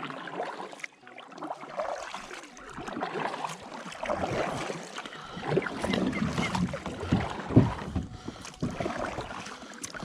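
A kayak moving through the water: irregular splashing and water sounds around the hull, with a sharper knock about three-quarters of the way through.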